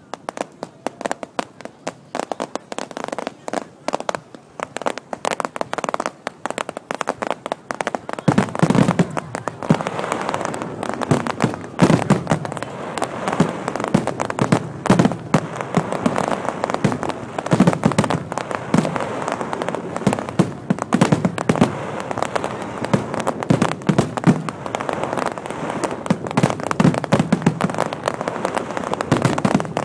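Chinese New Year firecrackers and fireworks going off in a dense, continuous crackle of bangs. It starts abruptly and grows louder and thicker, with heavier booms, about eight seconds in.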